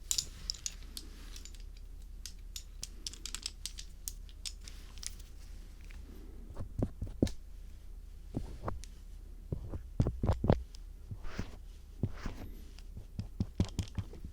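Ear-cleaning ASMR with a star screwdriver used as an ear pick: close-up scraping and tapping at the microphone, a string of sharp scratches and clicks. In the second half come louder, deeper rubbing strokes.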